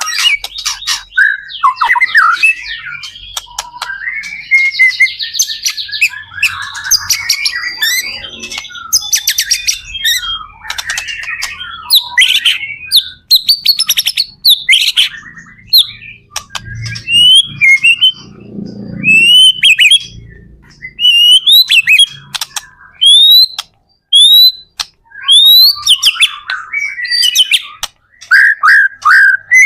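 White-rumped shama (murai batu) singing loudly and continuously, a varied run of rapid trills, chattering and sharp whistles. About two-thirds of the way through, the song turns to a series of clear rising whistled notes, roughly one a second.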